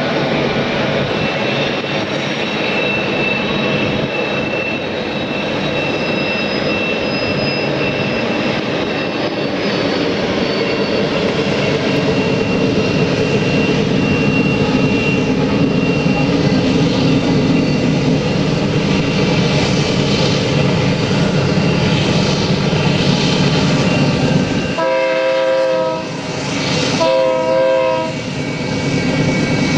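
Train running with a loud steady rumble and a thin high tone through the first half, then two short horn blasts near the end, about a second apart.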